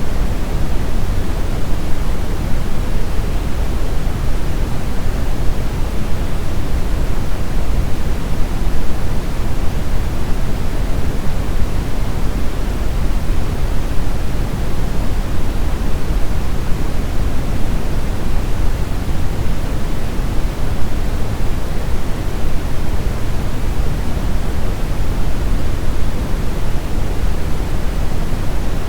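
Brown noise: a steady, even rushing hiss, deep and heavy in the lows, with no changes or events.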